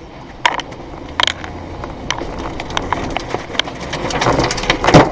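Tornado wind with flying debris: scattered sharp knocks and cracks over a rushing noise that grows denser and louder, with the loudest hit near the end.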